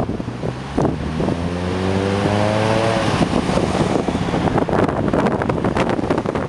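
Strong wind buffeting the microphone throughout. A passing road vehicle's engine hums with a slowly rising pitch from about one to three seconds in.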